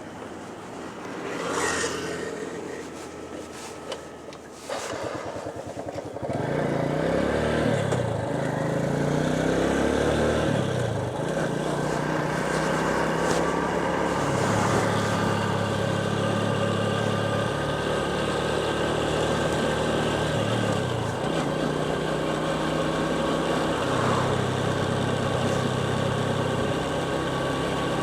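Motorcycle engine under way: after a few quieter seconds of wind hiss it comes in strongly about six seconds in, its pitch rising and falling as the bike accelerates and changes gear, then running at a steadier note.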